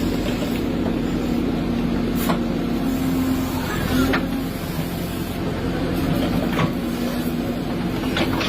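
Diesel engine of a Caterpillar earthmoving machine running steadily while digging, with a few sharp knocks or clanks from the machine's work scattered through it.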